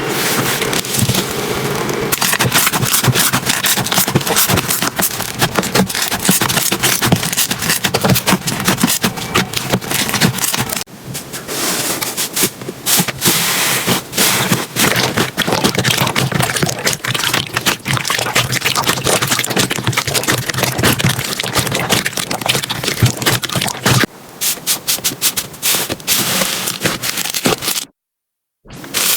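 Slime being squished and pressed by hand, with a dense run of crackling, popping clicks. It stops dead for a moment near the end.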